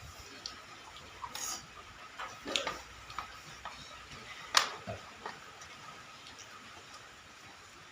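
Eating noodles: scattered short clicks of utensils against a bowl and a few brief slurping or chewing noises, with one sharper click about four and a half seconds in.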